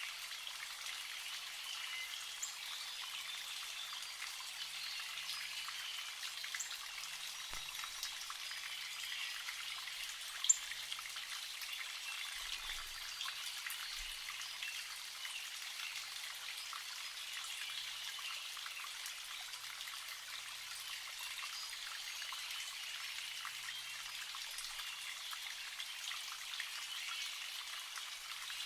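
Spring water trickling and dripping steadily, a dense patter of small drips. A single short, sharp high sound stands out about ten seconds in.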